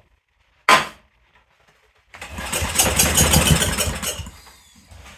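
Generac SVP 5000 generator engine pull-started on a shot of starting fluid. After a short hiss it fires, runs for about two seconds and then dies away, as it has no fuel of its own.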